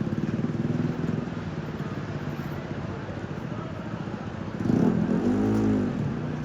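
A motor engine running steadily nearby, a low pulsing drone. About three-quarters of the way in, a louder pitched call rises and falls for just over a second.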